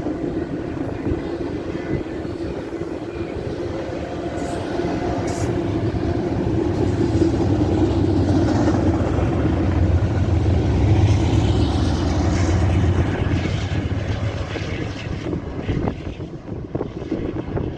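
Intermodal freight train rolling past, a continuous rumble of cars on the rails that builds to its loudest around the middle and eases off near the end.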